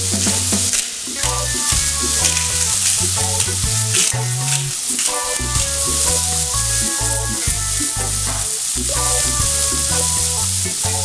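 Vegetables frying in hot oil in an open aluminium pressure cooker: a steady sizzling hiss. A tune of changing low and middle notes plays underneath.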